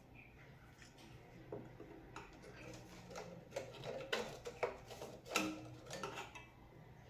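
Small clicks, taps and clatter of hand tools and small parts being handled while a wire is reconnected on an impulse bag sealer, over a steady low hum; the knocks come thicker in the second half.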